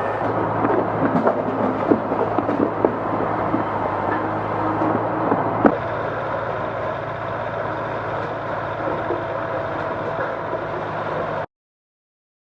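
A motor running steadily with a low hum, with scattered knocks and clatter over the first half, cut off suddenly near the end.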